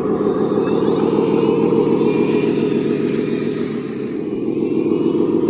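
Small electric motors and gearing of radio-controlled construction models running steadily, with faint whines rising and falling in pitch.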